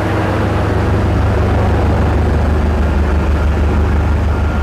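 Steady low mechanical rumble of a heavy engine running, with a thin steady high tone coming in near the end.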